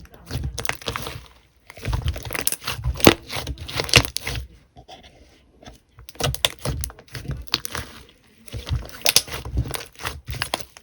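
Slime being squeezed and worked by hand, giving bursts of dense crackling, crunching clicks with short pauses between them.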